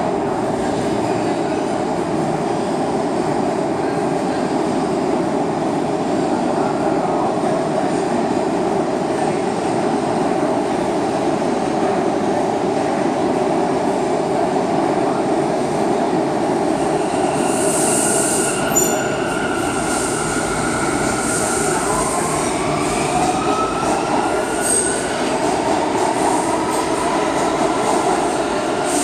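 R179 subway train running in the station: a steady, loud rumble of wheels on the rails. In the second half, high squealing and whining tones come in, some rising in pitch.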